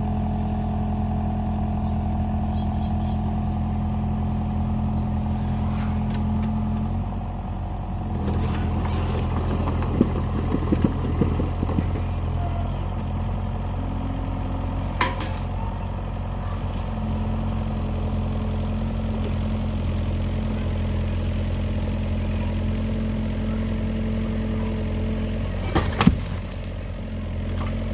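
Kubota excavator's diesel engine running steadily, its note changing about seven seconds in as the machine works. There is a burst of clattering a few seconds later, and sharp knocks about halfway and near the end, typical of the hydraulic grab handling rock.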